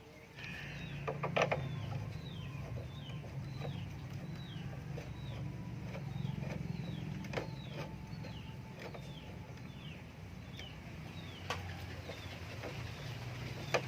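A small bird chirping over and over, short falling notes about two a second, over a low steady rumble, with a few sharp clicks.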